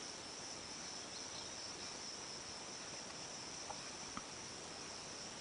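Faint steady background hiss with a high-pitched steady drone, and two tiny clicks a little past the middle.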